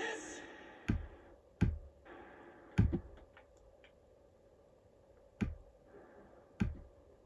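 Five sharp knocks or thumps at uneven intervals in a small room over a faint steady hum.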